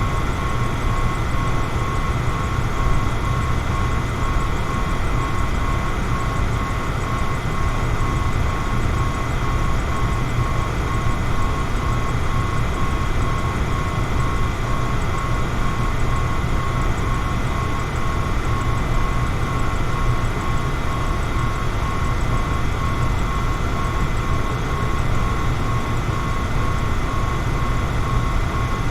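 Electric fan running steadily: an even rush of moving air over a low hum, with a faint high steady tone.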